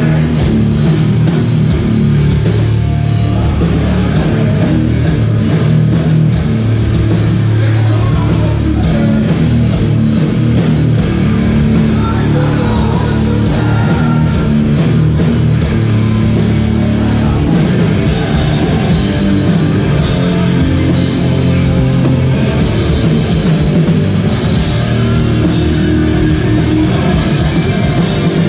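Hardcore band playing live and loud: distorted guitars and bass over a pounding drum kit, with cymbal crashes growing thicker about two-thirds of the way through.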